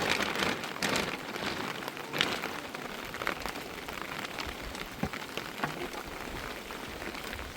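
Rain falling steadily, with many scattered sharp drop taps, a few louder ones in the first few seconds.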